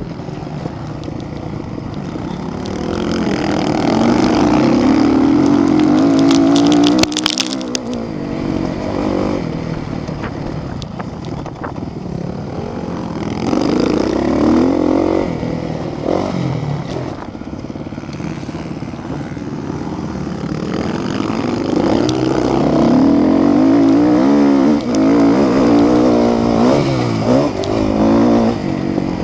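Motocross motorcycles racing past, their engines revving up and falling off again and again as the riders work the throttle, with several bikes overlapping at times. The engines swell loudest a few seconds in, around the middle and near the end, with a brief crackle about seven seconds in.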